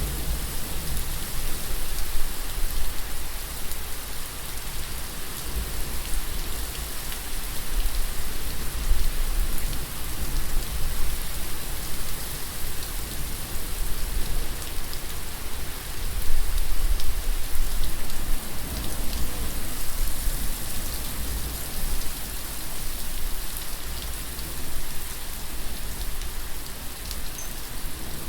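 Steady rain falling on a surface, a continuous hiss with fine drop patter. A low rumble runs underneath, swelling now and then.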